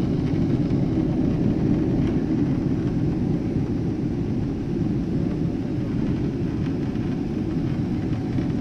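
Steady rumble of an airliner's jet engines and rushing air, heard from inside the passenger cabin.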